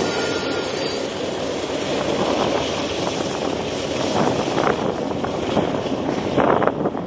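A freight train rolling past: a steady, noisy rumble and rush of the cars on the rails, with irregular scraping surges in the second half.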